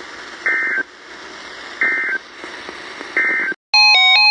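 Three short warbling data bursts of an Emergency Alert System end-of-message (SAME) signal, about a second and a half apart, over steady weather-radio static. After a brief dead gap near the end, a loud electronic tone pattern begins, stepping back and forth between pitches.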